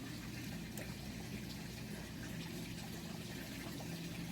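Steady background hiss with a faint low hum: room tone in a pause between sentences.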